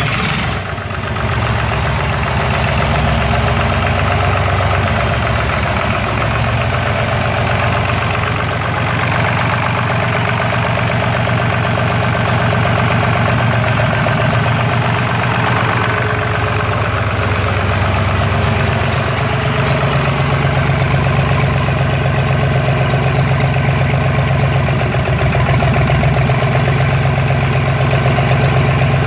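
Lister STW3 water-cooled three-cylinder diesel engine running steadily on a test run, its speed picking up slightly about two-thirds of the way in.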